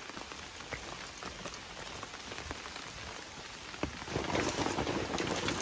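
Rain falling steadily, drops pattering on surfaces; about four seconds in it gets louder and heavier.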